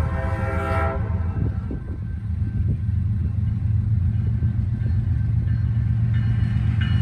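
Freight locomotive horn blowing with an odd, bad-sounding tone and cutting off about a second in, followed by the steady low rumble of the approaching freight train. The horn sounds like it is faulty and needs repair.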